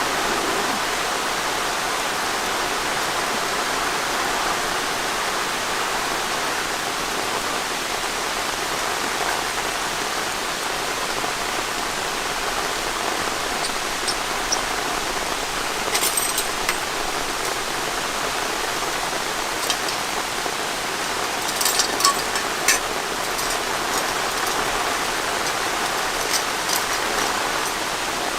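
Steady rain falling, with scattered sharper drops or ticks about halfway through and near the end.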